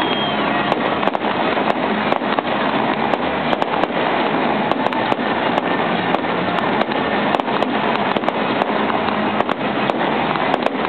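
Fireworks going off without a break: a steady hiss of spark jets with sharp pops and bangs several times a second.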